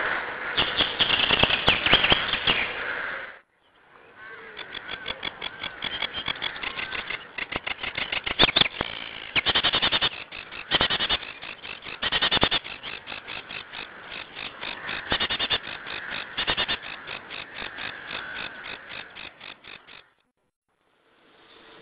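An animal's rapid pulsed calls, several a second, repeated in long trilling runs. The sound breaks off abruptly about three seconds in and again near the end.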